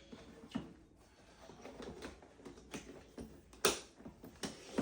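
A few scattered light clicks and knocks from objects being handled, with one sharper knock a little past the middle.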